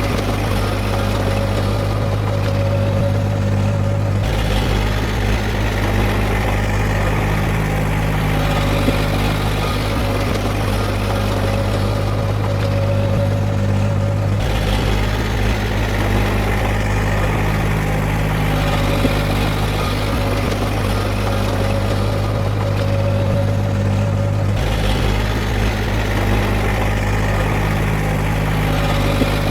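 Heavy earthmoving machine's diesel engine running steadily with a low hum. Its sound shifts abruptly about four, fourteen and twenty-four seconds in.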